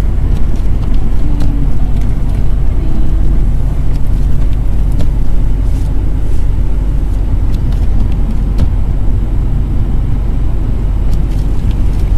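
A car driving, heard from inside: a steady low rumble of engine and tyres, with a few faint ticks.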